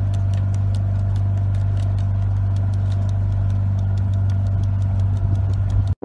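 Motorboat engine running steadily underway: a loud, even low drone with a faint regular ticking over it.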